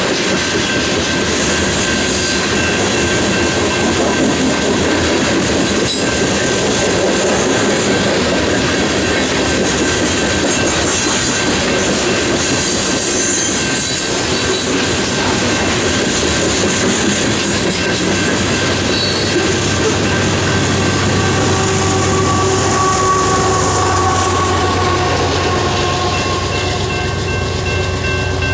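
Loaded coal train's hopper cars rolling past: continuous wheel and rail noise with a steady high wheel squeal. In the last third the steady drone of a diesel locomotive engine joins in, from the distributed-power unit passing.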